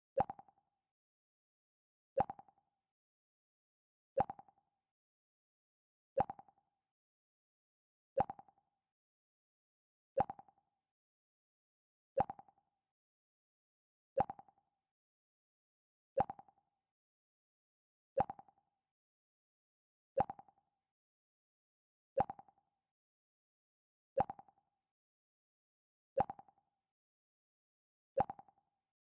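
Mac OS X 'Pluck' sound effect: a short plucked tone that dies away quickly, repeated about every two seconds with silence between.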